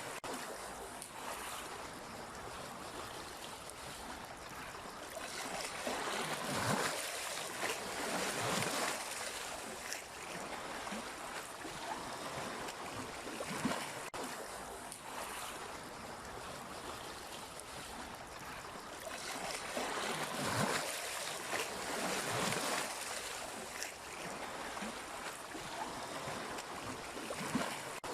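Sea waves washing in: a continuous rush of surf that swells twice, about a quarter of the way in and again past the middle, then eases back.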